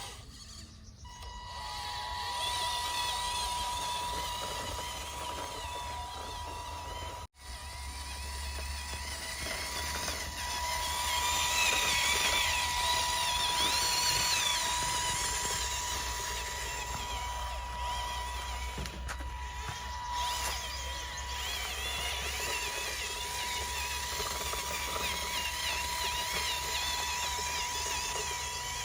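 Small electric gear motors of a homemade RC model tractor running with a steady whir, a little louder for a few seconds in the middle, broken by a brief cut about seven seconds in.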